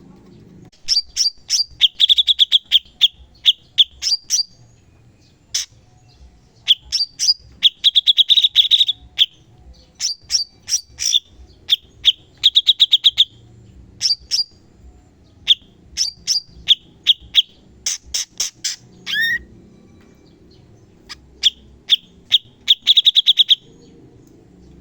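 Cucak cungkok songbird singing loud bursts of very rapid, sharp repeated notes and fast trills, with short pauses between phrases and a falling note about three-quarters of the way through.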